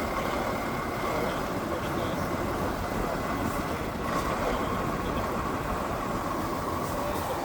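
Heavy off-road trial truck's engine running steadily, with a faint steady whine.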